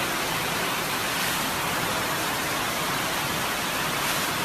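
Steady, even rush of water from torrential rain and flooding.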